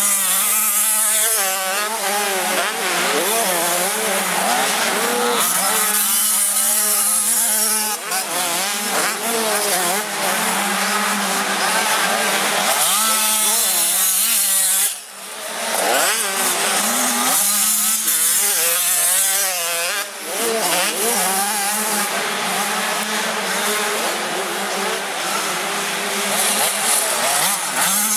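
Several 85 cc two-stroke motocross bikes racing, their engines revving up and down with pitches rising and falling over one another. The sound drops briefly about halfway through.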